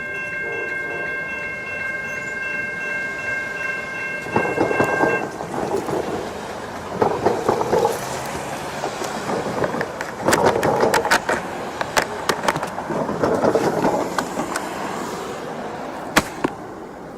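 Amtrak passenger train passing at about 45 mph. A held chord of steady tones stops about five seconds in, then comes a swelling wheel-and-rail rumble with many sharp clicks and knocks as the cars roll by, easing near the end.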